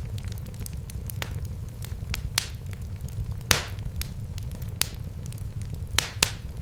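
Wood fire crackling in a fireplace: irregular sharp pops and snaps over a steady low rumble of burning, with a louder pop about halfway through and two more close together near the end.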